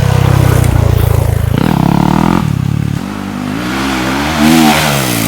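Dirt bike engine running hard and loud, then quieter, with its pitch rising and falling near the end as the throttle is opened and eased off.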